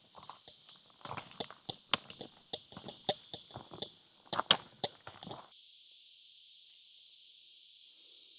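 Footsteps crunching and knocking on a rocky hiking trail at an irregular walking pace, stopping suddenly about five and a half seconds in. Behind them runs a steady high hiss.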